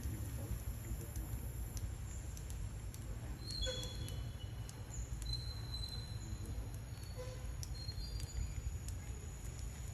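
Several short, high, thin chirps or squeaks from small animals, clustered between about three and a half and eight and a half seconds in, over a low steady outdoor rumble, with a few faint clicks.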